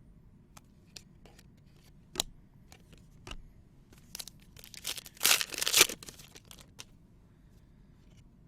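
Trading card packs being handled and opened: scattered light clicks and rustles, then a loud burst of tearing and crinkling about five seconds in.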